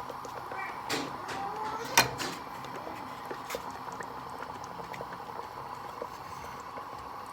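Pot of stew simmering, with a few sharp clicks over it; the loudest click comes about two seconds in.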